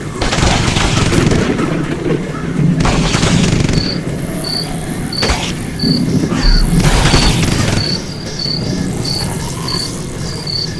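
Bonfire burning with surges of crackling, rushing noise and one sharp pop a little past the middle. A cricket chirps evenly, about twice a second, from about a third of the way in.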